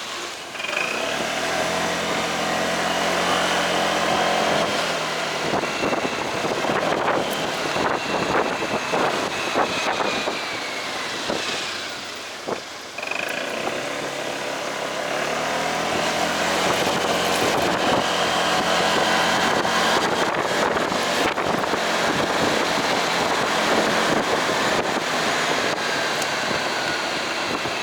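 Delivery motorcycle's engine running while riding, with wind rushing over the microphone. It eases off about twelve seconds in, then picks up again.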